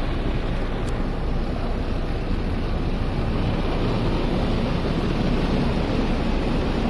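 Automatic car wash running over the car, heard from inside the cabin: a steady rushing of water spray and rotating brushes on the bodywork.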